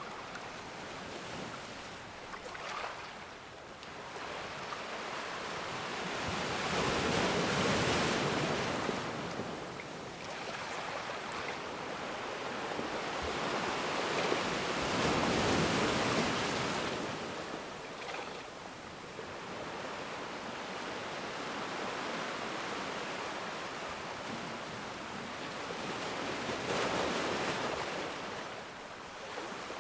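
Ocean waves breaking and washing up the shore, a steady surf hiss that swells three times, with the loudest wash about halfway through.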